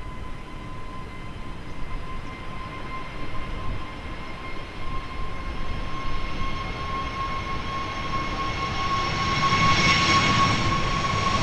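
Airbus A320neo jet engines running with a steady high whine that creeps slightly up in pitch, growing louder with a rising rumble in the last few seconds.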